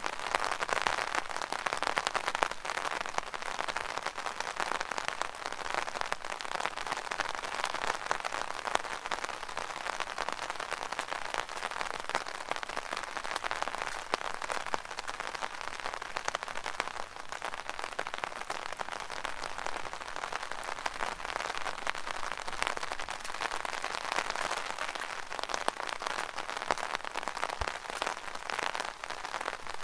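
Rain falling on an umbrella canopy: a steady, dense spatter of many small drop hits.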